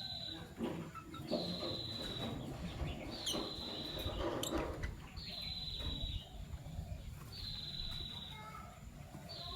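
Fischer's lovebirds calling: a high, even note repeated about every second and a half, with a few sharp chirps about three to four and a half seconds in, over a low rumble.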